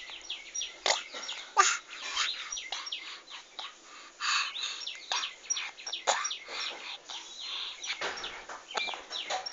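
Small birds chirping in many short, quick calls, some sweeping downward in pitch, scattered irregularly throughout.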